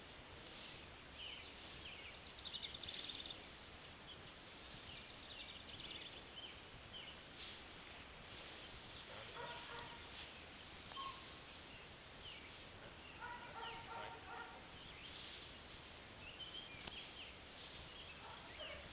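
Faint outdoor ambience of wild birds chirping and trilling over a steady background hiss, with a louder rapid trill a few seconds in and a couple of lower repeated calls near the middle.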